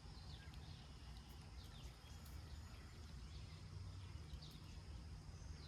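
Faint outdoor ambience: a steady low rumble with scattered short high bird chirps and a thin steady insect drone.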